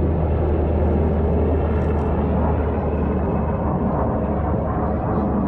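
UH-60 Black Hawk helicopter flying close by: a loud, steady, deep rumble that eases slightly about three and a half seconds in.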